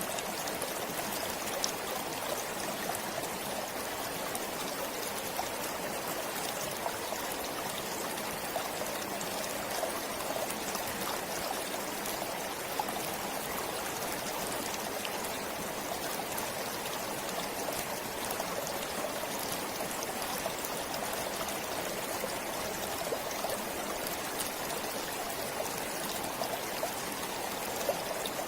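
Forest stream flowing steadily over stones, a constant rushing and trickling with small scattered splashes.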